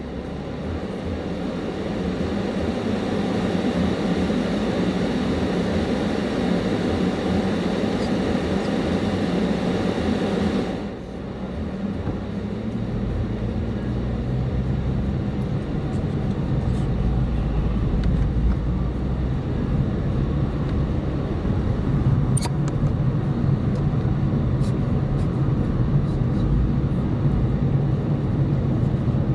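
Car on the move, engine and tyre noise heard from inside the cabin. The noise builds over the first ten seconds, dips briefly about eleven seconds in, then settles into a steadier low engine hum.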